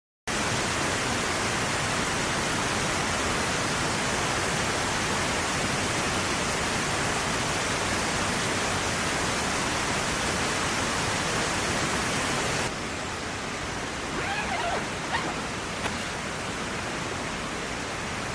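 Steady rushing of water, dense and loud, starting abruptly. About two-thirds of the way through it drops to a quieter, duller rush, with a few faint high chirps near the end.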